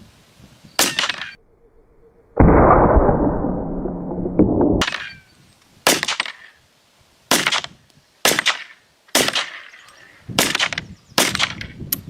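Colt M1903 Pocket Hammer pistol being test-fired: a sharp report about a second in, then a loud rushing noise lasting a couple of seconds, then a run of seven or eight sharp reports about a second apart, each with a short ring.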